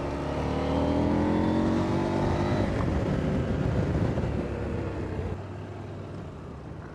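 Motorcycle engine accelerating, its pitch rising over the first few seconds, then running rougher before it quietens about five seconds in.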